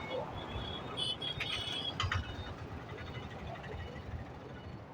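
Roadside traffic noise: a steady low rumble of passing vehicles, with a few short high chirps and a sharp click between one and two seconds in.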